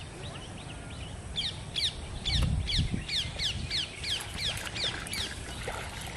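A bird calling a quick series of about a dozen short, downslurred whistled notes, about three a second, over steady outdoor background. A low rumble comes in briefly near the middle.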